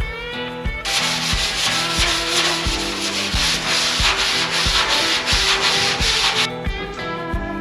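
Sanding on the painted steel body of a 1958 Chevy 3100 pickup, taking paint down for a patina finish. It is a steady scratchy rasp that starts about a second in and stops near the end, over background music with a steady beat.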